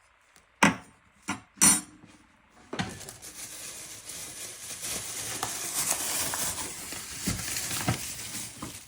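Flour being added to a bowl of chicken mince: three sharp knocks as the container is handled, then a steady rustling and pouring noise for the rest.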